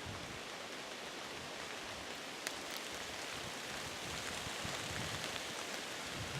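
Steady rain falling, with one sharp tick about two and a half seconds in.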